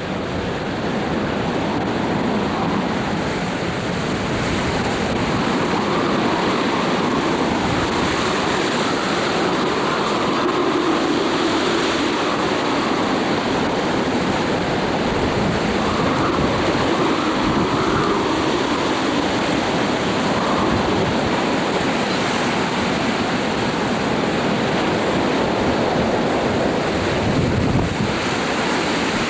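High winds blowing across the camcorder microphone: a loud, steady rushing noise.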